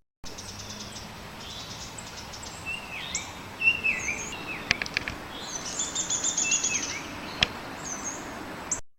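Several birds calling over a steady background hiss. One bird gives an angry-sounding, non-musical call, a second repeats a call, and a downy woodpecker gives its whinny, a fast run of notes that serves as a territorial call. A few sharp clicks are heard in the second half.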